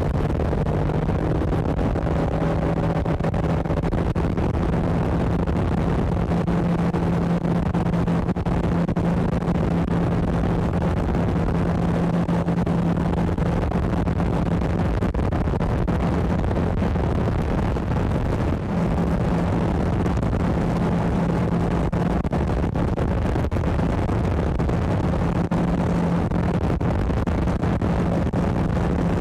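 Motorboat engine running steadily at speed: a constant hum under a rush of wind and water noise.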